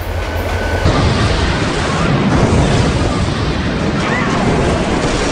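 A loud explosion, likely an added sound effect, bursts in suddenly about a second in and carries on as a long, dense noisy blast. Before it there is a steady low hum.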